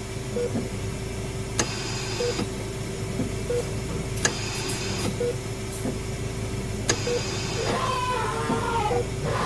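Creepy hospital sound-design ambience: a steady electrical hum with a short beep repeating every second or two, a sharp click every couple of seconds followed by a brief hiss, and wavering tones sliding down in pitch near the end.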